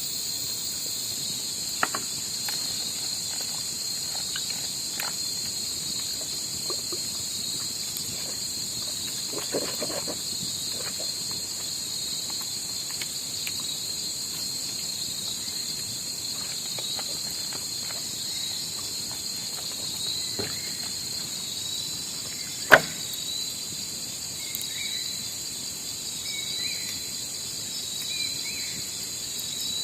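Steady insect chorus: a continuous high drone of several steady tones, with a few scattered knocks and clicks, the sharpest about two-thirds of the way through.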